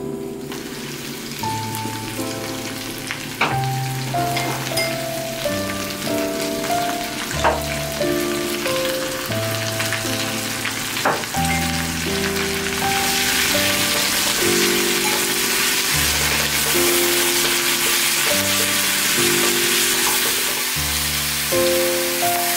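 Zucchini and onion sizzling as they stir-fry in perilla oil in a pot, the sizzle growing louder a little past halfway, with a few sharp knocks along the way. Background music with a stepwise melody plays throughout.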